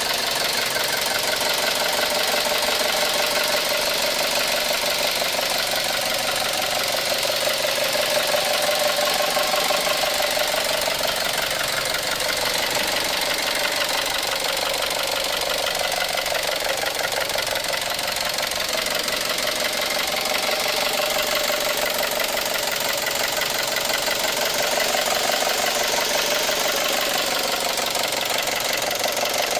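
2012 Chevrolet Cruze 1.4L turbo Ecotec engine running steadily with a loud, rapid, even clatter that sounds like a diesel. It is a sign of internal engine damage, which could be bad lifters, timing issues or rod knock.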